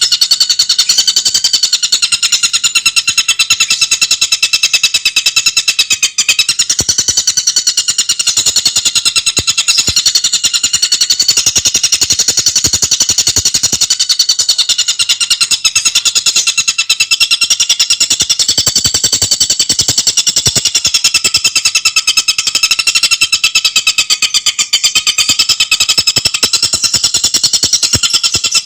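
Tengkek buto bird singing a loud, unbroken, very fast rattling trill, high-pitched and sustained without pause.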